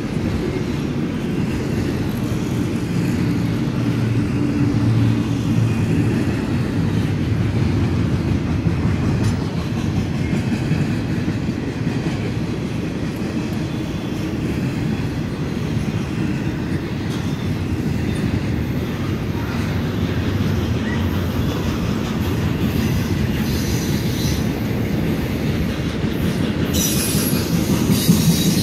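Intermodal freight cars rolling past on the rails, a steady low rumble of wheels on track, with high-pitched wheel squeal near the end.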